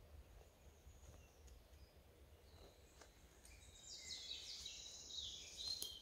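Songbird singing in a quiet forest: a few faint high chirps, then a louder, fast run of varied notes from about four seconds in that stops just before the end. Under it, a faint low rumble.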